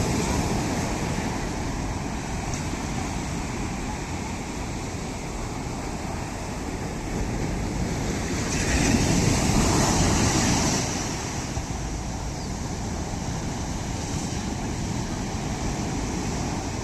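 Sea waves breaking on the shore, with one bigger wave surging about halfway through, over a constant wash of surf and some wind noise on the microphone.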